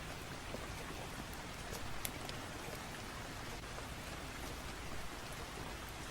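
Steady rain ambience, an even hiss of rainfall, with a few sharp crackles scattered through it, the clearest about two seconds in.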